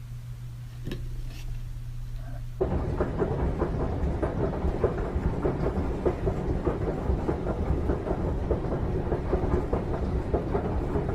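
Low-flying helicopter passing close overhead: loud rotor and turbine noise with rapid blade thumps. It cuts in suddenly about two and a half seconds in, after a quieter steady hum.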